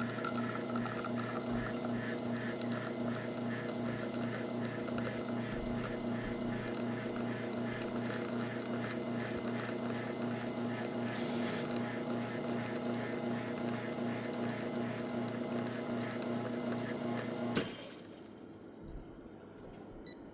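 Faema Enova A1 espresso machine's pump motor running with a steady hum and a fast pulsing rattle, then switching off with a click about seventeen and a half seconds in.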